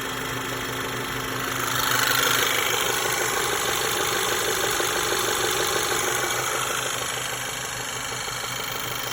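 1.8 TSI CDAB turbocharged four-cylinder petrol engine running with a knock whose cause is unknown: the cam phaser vanes have already been replaced and the timing chain is judged fine. The sound grows louder about two seconds in, then eases back over several seconds.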